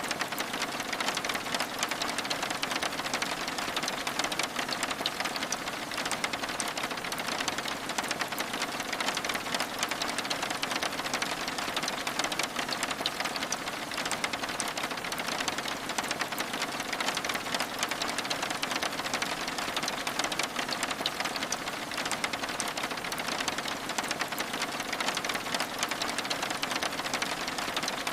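Steady rain, a dense, even patter of many small drops on window glass.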